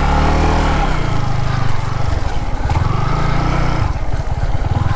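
Yamaha MT-15's single-cylinder engine running under the rider on rough ground, its note rising a little near the start and then pulsing unevenly as the throttle changes.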